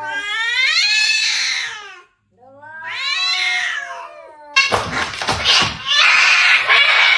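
A domestic cat yowling twice in long, drawn-out calls that rise and fall in pitch. About four and a half seconds in, a loud harsh noise starts suddenly.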